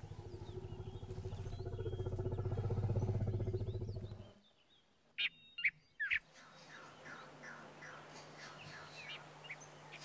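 A low, finely pulsing hum swells and then cuts off about four seconds in. Then come wild bird calls: three sharp chirps, followed by a run of repeated short calls.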